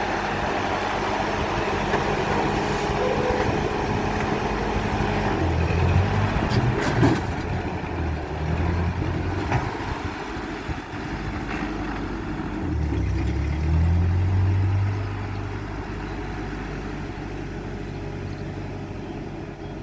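Ford 8N tractor's four-cylinder engine running. It holds a steady note at first, then drops lower about five seconds in and rises and falls as it works. A few sharp knocks come around six to seven seconds in.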